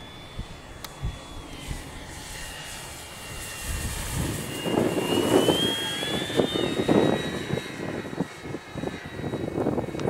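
Electric motor and propeller of an E-flite Draco RC plane whining in flight, the pitch dipping and then climbing again as the throttle changes. Strong wind buffets the microphone in loud gusts from about four seconds in.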